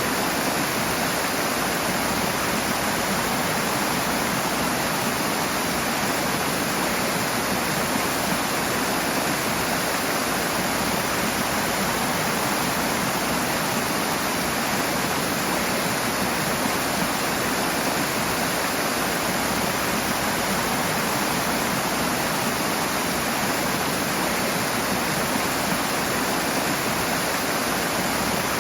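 Rushing water, a steady, full-bodied roar with no breaks.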